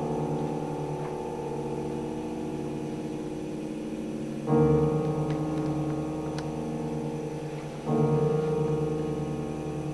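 Piano played slowly: held chords ringing and fading, with a new chord struck about halfway through and another near the end.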